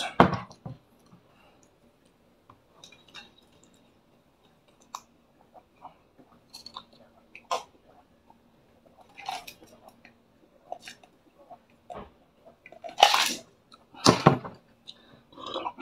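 Close-up mouth sounds of a man eating: quiet chewing with small wet clicks and smacks, and sips from a mug. Two short, louder, noisy bursts come near the end.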